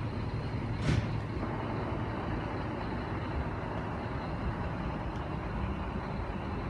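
Scania G410 truck's straight-six diesel engine idling steadily, with one short sharp burst of sound about a second in.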